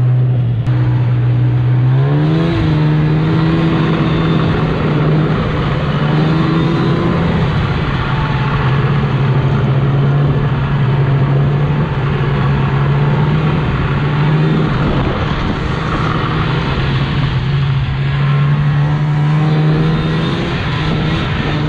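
Snow-plow truck's engine running steadily under road noise, its pitch stepping up about two seconds in.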